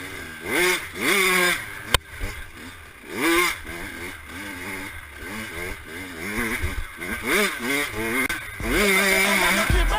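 Dirt bike engine revving, its pitch climbing and dropping again and again as it runs up through the gears, with a sharp click about two seconds in.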